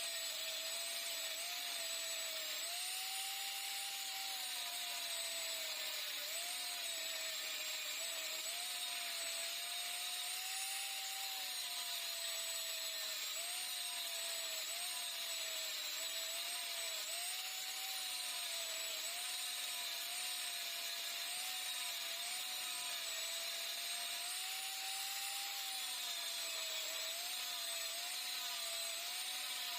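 A hand-held power tool's electric motor running continuously, its whine dipping in pitch and picking back up every second or two as it is pressed into the work, typical of metal being cut or ground out of a motorcycle exhaust.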